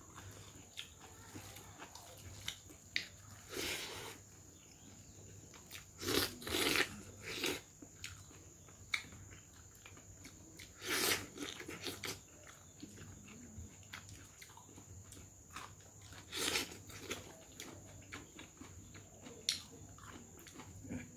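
Close-up mouth sounds of a person eating rice and pork by hand: chewing with wet smacks and clicks, a few louder bursts of chewing scattered through.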